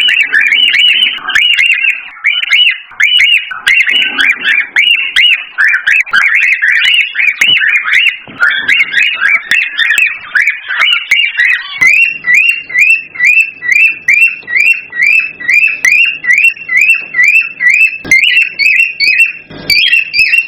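Cockatiels calling: a dense run of short, rapid chirps, settling about halfway through into one call repeated steadily two or three times a second.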